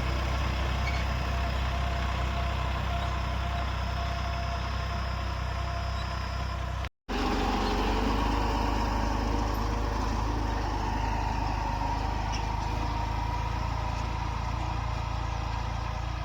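New Holland farm tractor's diesel engine running steadily, with a brief cut to silence about seven seconds in.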